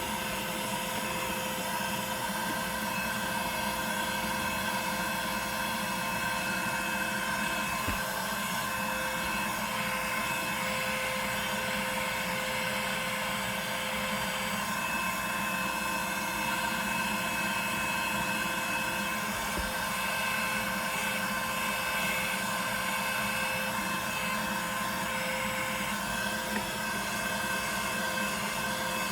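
A small motor running steadily with a whine over an even rushing hiss, unchanging throughout.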